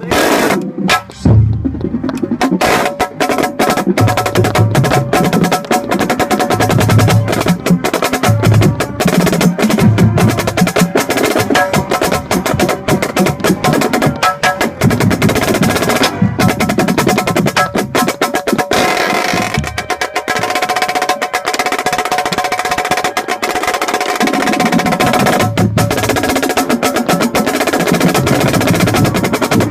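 Marching snare drum played close to the microphone, rapid strokes and rolls, with the marching band's wind instruments holding notes behind it. The drumming thins out for a few seconds past the middle while the held notes come forward.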